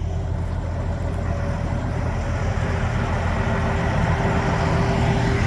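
New Holland FR700 forage harvester's engine running steadily, heard from inside the cab as a low hum. A faint steady whine joins about three seconds in.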